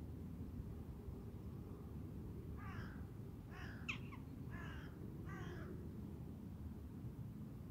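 A bird gives four harsh calls about a second apart, starting a few seconds in, with a sharp click during the second call. A steady low rumble of wind runs underneath.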